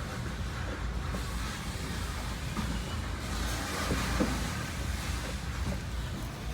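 Freight train rolling slowly past with a steady low rumble.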